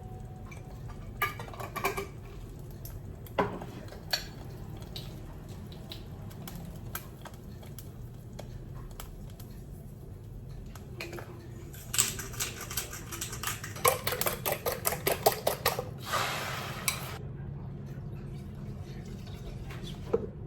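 Kitchen utensils and dishes clinking: a few scattered knocks early on, then a quick run of rapid clinks and taps past the middle, ending in a brief hiss.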